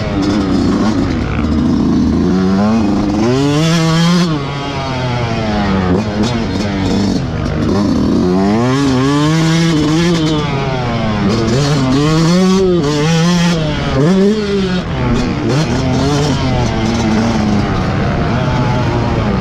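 Yamaha YZ125 two-stroke single-cylinder motocross engine revving hard on track, the pitch climbing and falling every second or two as the throttle is opened and rolled off and the rider shifts gears.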